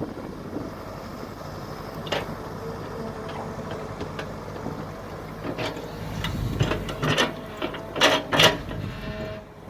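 Mini excavator's engine running steadily, with a series of sharp metal knocks and clanks from the machine working, the loudest two close together about eight seconds in.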